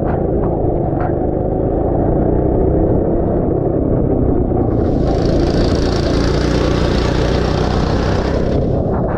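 Go-kart engine running on track, its pitch drifting up and down, under heavy wind buffeting on a helmet camera. About five seconds in a hiss joins for roughly four seconds, then cuts off.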